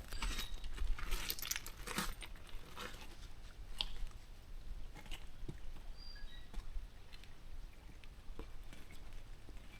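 Footsteps crunching through dry fallen leaves in an irregular walking rhythm, busier in the first couple of seconds and then sparser.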